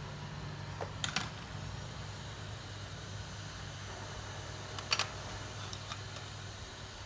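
A steady low fan hum from bench equipment, with a few small sharp clicks and taps, the clearest about a second in and near five seconds. The hum weakens about five seconds in.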